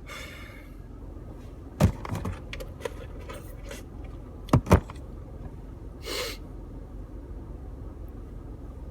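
Scattered knocks and clicks over a low steady hum, with two sharp knocks in quick succession about halfway through and a brief rustling hiss a little after.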